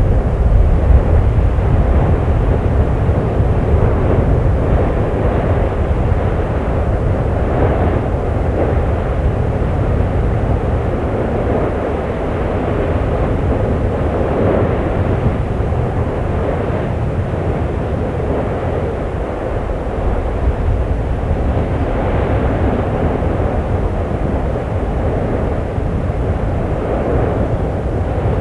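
Erupting volcano giving a loud, steady deep roar that swells and eases every few seconds.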